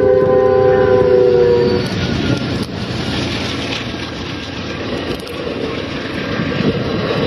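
A horn sounds a steady two-note chord that cuts off about two seconds in. A broad, steady rushing noise follows.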